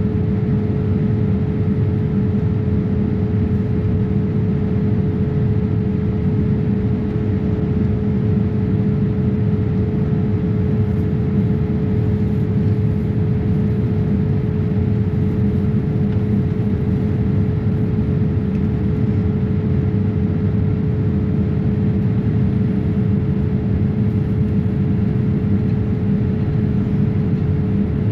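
Steady drone of a Boeing 787-8 heard from inside the passenger cabin, engine and airflow noise with a steady hum a little below 500 Hz. It holds even, with no change in pitch or level.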